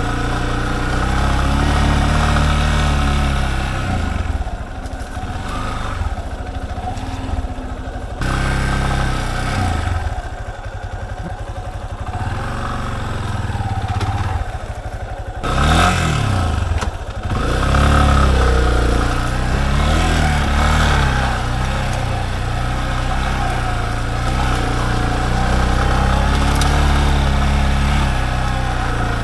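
Yamaha Serow trail bike's air-cooled single-cylinder four-stroke engine running as the bike climbs a forest track. The revs ease off to a lower, quieter note twice in the first half, rise in a sweep about halfway through, and then run harder.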